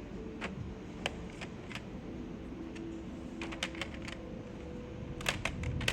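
Irregular sharp plastic clicks from keycaps on a QK80 MK2 mechanical keyboard with Tori switches as the caps are pushed onto the switches. There are a few single clicks at first, then quick bunches of clicks about three and a half seconds in and near the end.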